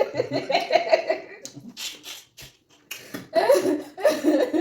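A person laughing and making voiced exclamations, with a short breathy break and a brief pause about halfway before the laughing voice comes back.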